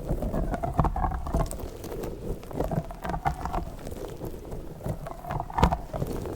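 Fingers handling an orange squishy slug toy close to the microphone, making irregular squishing and crackling noises with many short clicks, one sharper click about five and a half seconds in.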